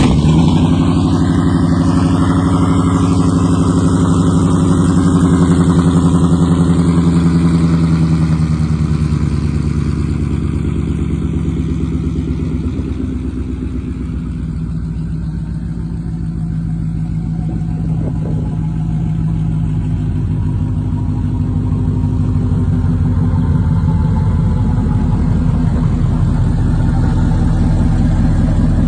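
Gen 2 Ford 5.0 Coyote V8 with long tube headers, out of the car, running steadily at idle just after catching. It eases a little quieter partway through and builds back up near the end.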